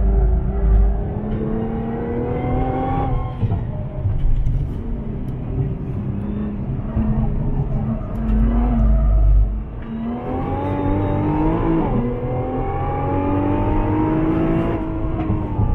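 Nissan GT-R's twin-turbo V6 heard from inside the cabin under hard acceleration on track, the revs climbing and dropping back sharply at upshifts about three seconds in and again near the end, with a low rumble beneath.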